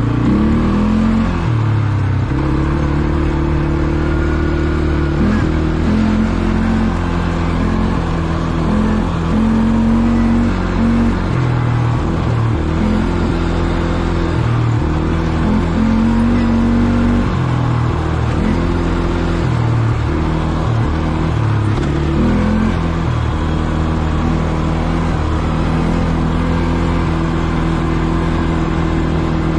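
ATV engine running under way, its pitch rising and falling again and again with the throttle, then holding steady near the end.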